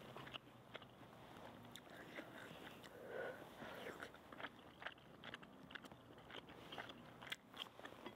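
Faint close-up chewing of cheesy noodles, with scattered small clicks.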